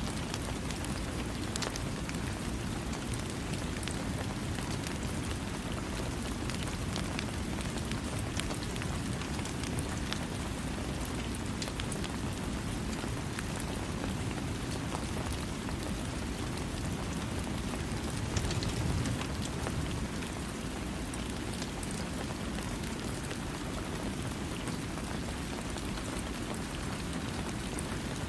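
Steady rain falling on a surface: a dense, even hiss with a strong low rush and scattered sharp drop ticks. There is a brief low swell about two-thirds of the way through.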